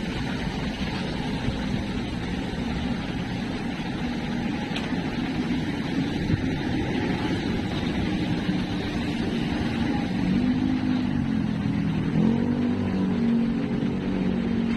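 Steady rumble of passing motor vehicles. About ten seconds in, a wavering pitched sound joins it.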